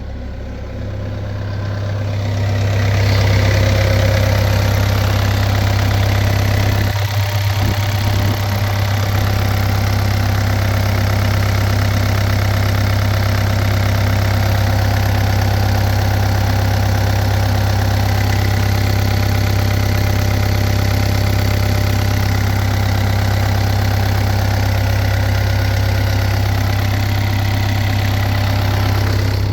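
The Yanmar four-cylinder diesel engine of a New Holland E60C excavator idles steadily. It grows louder over the first few seconds.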